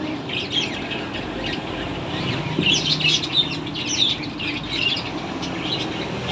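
Birds chirping: many short, high chirps, coming thick and fast in a flurry about halfway through, over a steady low background rumble.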